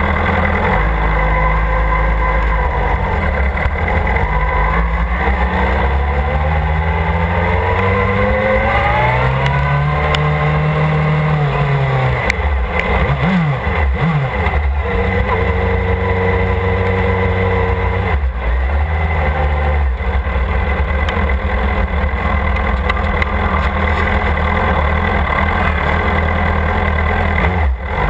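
Motorcycle engine running under a constant low rumble. Its pitch climbs steadily as it accelerates for several seconds, drops back about halfway through, then holds fairly even.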